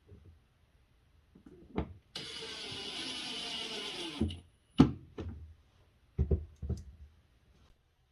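Cordless drill-driver running for about two seconds, driving a screw back in, its pitch dropping as it stops. A few short knocks of parts being handled come before and after it.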